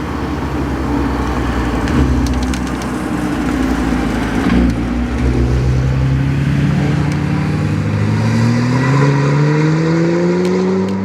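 Nissan GT-R engine pulling at low revs, then rising steadily in pitch as the car accelerates through the second half.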